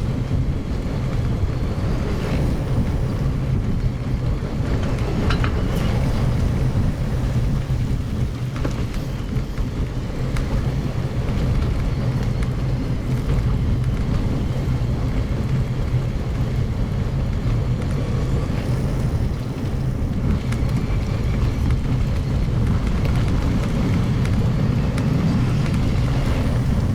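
Steady low rumble of wind on the microphone mixed with tyre noise from a mountain bike riding a forest road, played back at double speed.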